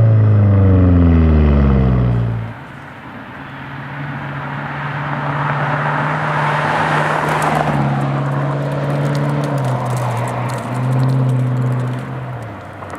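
BMW F10 M5's 4.4-litre twin-turbo V8 through a muffler bypass exhaust with race resonators, loud at first with its pitch falling steadily as the revs drop. About two and a half seconds in it goes much quieter, settling to a low steady engine note under a rushing noise that swells and fades around the middle.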